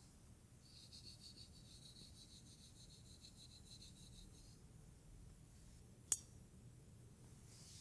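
Faint soft rubbing through hair for the first few seconds, then a single sharp click about six seconds in.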